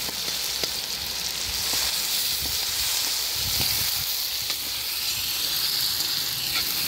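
Meat and onions frying in hot oil in a cast-iron kazan, a steady sizzle, with a few light scrapes of a metal slotted spoon stirring against the pot.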